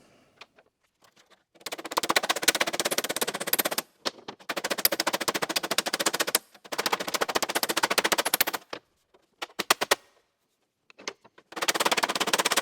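Hammer striking a steel door skin against a dolly, folding the outer skin's edge down over the door frame. The blows come as rapid runs of fast taps about two seconds long, with short pauses between runs and a brief flurry before the last run.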